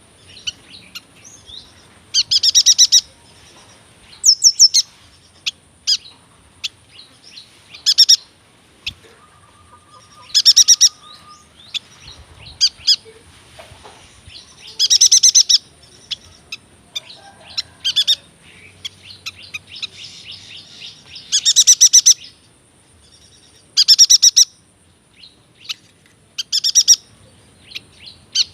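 Yuhina singing in short bursts of rapid chattering notes, one every two to three seconds, with quieter chips in between.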